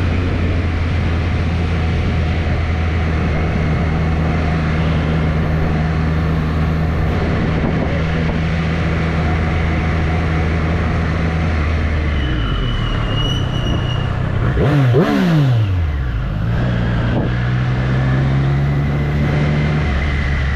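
2024 Triumph Street Triple's three-cylinder engine running at steady revs. A little past halfway it eases off, and its pitch falls steeply for a moment before it settles back into a steady pull that rises slightly near the end.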